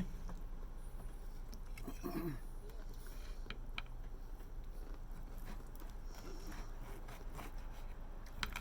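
Eating at the table: a few sharp clicks of utensils on a plate, with a short falling voice sound about two seconds in and again near the end, over a steady low hum.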